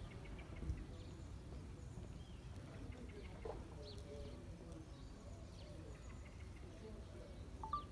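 Quiet open-air ambience with faint scattered bird calls and a low steady hum.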